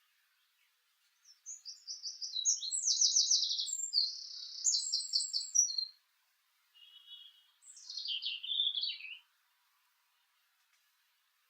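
A small songbird singing a fast, high run of trills for about four seconds. About a second later it sings a shorter phrase that falls in pitch.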